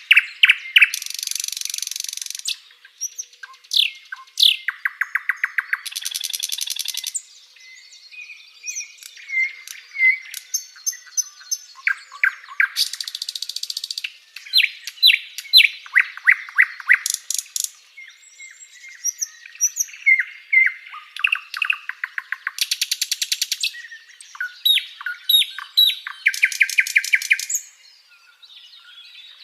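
Sikatan londo, a flycatcher, singing a varied song: short chirps and quick slurred whistles, broken every few seconds by fast rattling trills that last a second or two.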